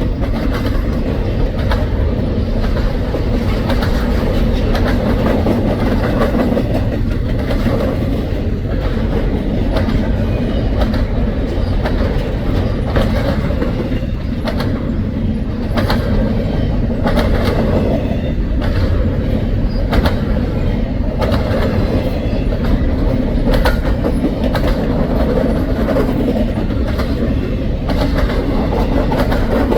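Double-stack container freight train rolling past: a steady rumble of steel wheels on the rails, with frequent sharp clicks as wheels pass over rail joints.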